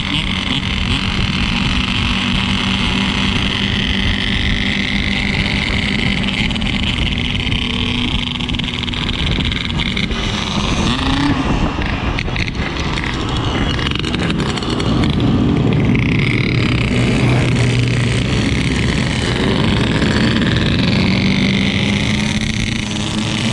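Yamaha RX-King 135's single-cylinder two-stroke engine running under way. Its pitch holds steady, dips briefly about halfway through, then rises again twice as the throttle opens.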